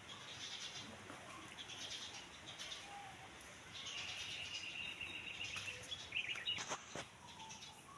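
Birds chirping, with a longer warbling trill about four seconds in and a few sharp calls near the end.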